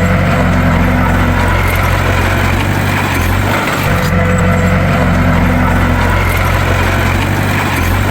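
Bulldozer engine running steadily under load, a deep low rumble. The sound swells and dips in a cycle of about four seconds.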